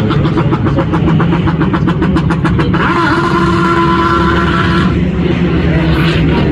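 Race cars driving past at speed, their engines at high revs. A rapid pulsing engine note gives way to one car's steady held note for about two seconds in the middle.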